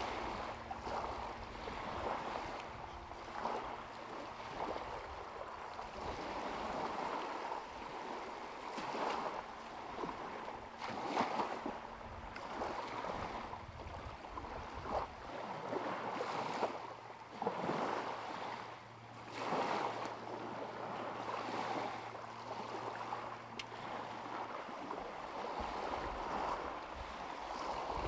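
Small lake waves lapping and washing against the shore in irregular surges, with a faint steady low hum beneath that stops near the end.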